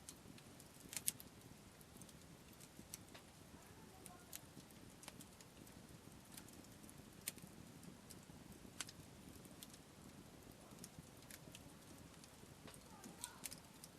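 Wood campfire crackling faintly, with irregular sharp pops and snaps.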